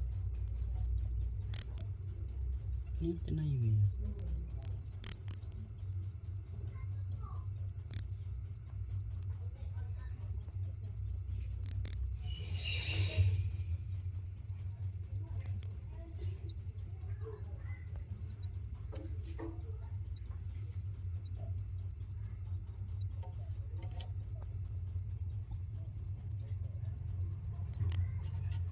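Cricket chirping steadily, a high-pitched pulsing of about four chirps a second that keeps an even rhythm throughout.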